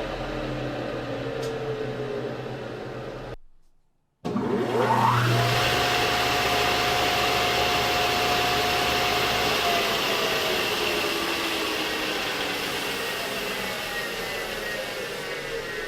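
A large stationary woodworking machine's electric motor running steadily; after a brief cut to silence a few seconds in, it starts again with its pitch rising quickly, then settles into a steady run.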